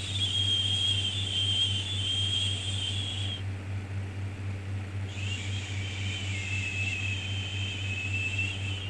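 A soothing "shhh" shushing sound for calming a baby: two long shushes of about three and a half seconds each, with a pause of under two seconds between them, over a steady low hum.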